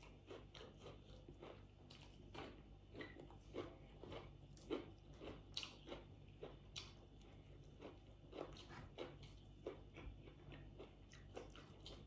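A person chewing food, heard as faint, irregular crunchy clicks and smacks, a few a second.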